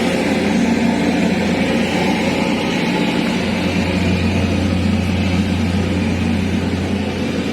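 A heavy engine running steadily at low speed, a low drone under a wash of noise that firms up about halfway through.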